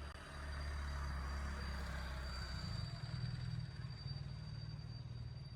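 Motor vehicle engine running, a steady low rumble that shifts slightly in pitch about halfway through.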